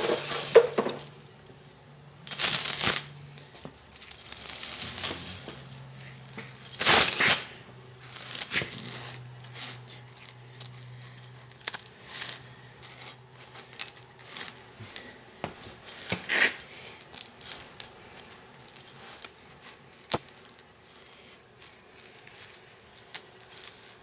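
Metal tire chains clinking and rattling as they are handled and fitted to a lawn tractor's rear wheels. The loudest jangles come in the first few seconds, followed by many small scattered clinks, over a faint steady hum.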